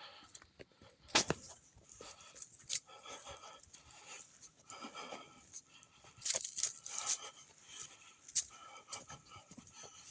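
Footsteps crunching on a dry woodland trail, an uneven run of crackling steps with a few louder ones about a second in and around six to seven seconds in.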